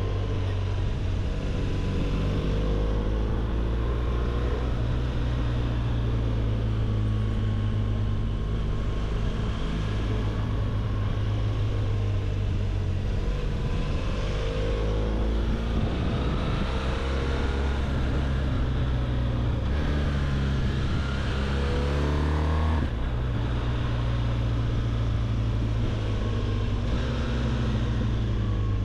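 BMW R1200GS boxer-twin engine running under way. Its pitch rises and falls several times as the speed changes, with a brief sudden drop about three-quarters of the way through, over a steady rush of wind and road noise.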